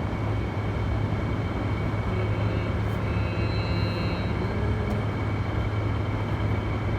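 Air conditioner's fan motor running on low speed with the compressor off: a steady hum with rushing air and faint thin whines above it. The owner hears an odd motor sound in it and wonders whether something is wrong with the fan.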